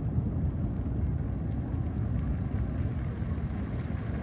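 Continuous low rumble of a starmine fireworks display, its booms blurred together, with a few faint crackles.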